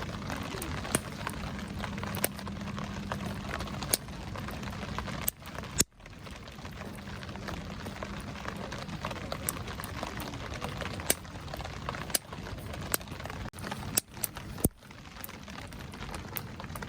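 Wood fire burning in a Solo Stove, crackling with sharp irregular pops, over a steady hiss of rain.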